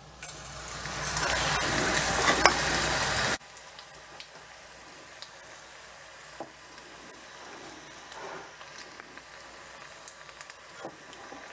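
Battered soya chunk pakoras sizzling in hot oil as they are dropped into the pan. A loud frying hiss builds over the first three seconds, cuts off suddenly, and gives way to a quieter steady sizzle with small pops and crackles.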